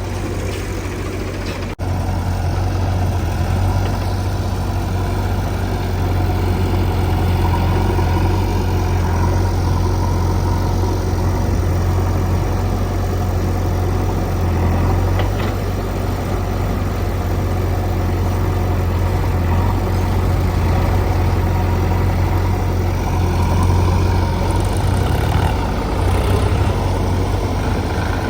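Heavy diesel engine of a backhoe loader and tractor at work, running steadily at an even, low speed with a deep, constant hum.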